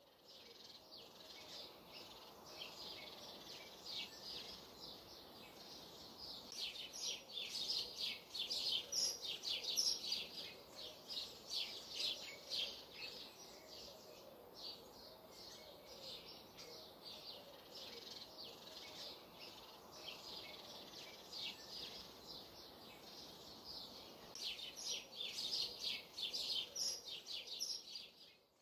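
Birdsong: many birds chirping and calling in quick short notes, busiest about a third of the way in and again near the end, over a faint steady background hiss.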